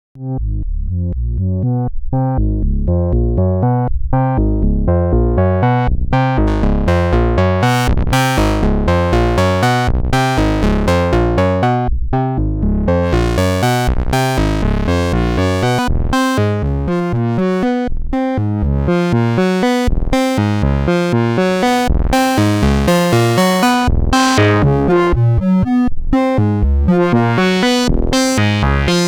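Novation Bass Station II analog monosynth playing a repeating eighth-note sequencer pattern, dry with no effects. The tone starts dark and the filter opens over the first several seconds, making it brighter, as the notes step through changing pitches at about four a second.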